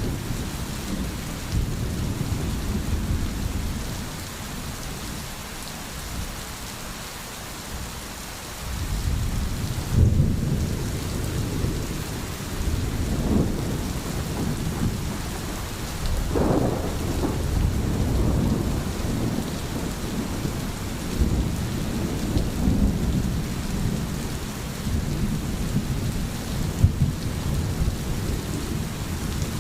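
Steady rain with low rolling thunder; the rumble eases off for a few seconds, then swells again about ten seconds in and once more a few seconds later.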